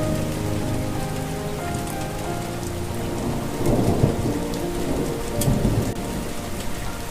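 Steady rain falling, with a rumble of thunder swelling about halfway through, over a soft melody of held notes.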